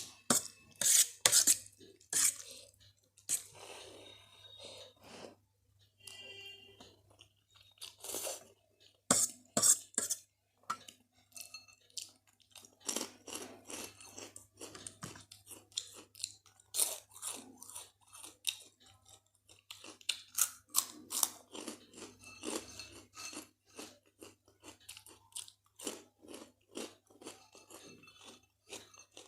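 Close-up chewing and crunching of Kurkure corn puffs mixed into spicy Maggi instant noodles: crisp crackling bites in clusters with wet chewing between them. A faint steady low hum runs underneath.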